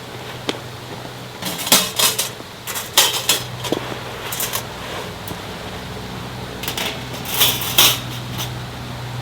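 A steady low hum, with four clusters of short, sharp clattering sounds over it.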